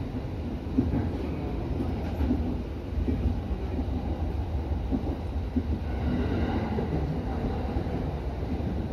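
Electric commuter train running, heard from inside the driver's cab: a steady low rumble of wheels on rail with irregular clacks. A faint high whine comes in about six seconds in.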